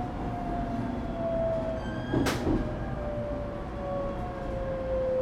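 ET127 series electric train's Toyo Denki GTO-VVVF inverter whining in several tones that slide slowly down in pitch as the train slows, over the rumble of the wheels on the rails. A single sharp click sounds about two seconds in.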